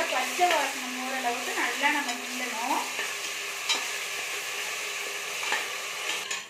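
Ginger-garlic-shallot paste sizzling in oil and ghee in a stainless steel pressure cooker while a slotted metal spoon stirs it, the spoon scraping and squeaking against the pot bottom for the first three seconds. The sizzling goes on steadily after the squeaks stop, the paste being fried until its raw smell goes.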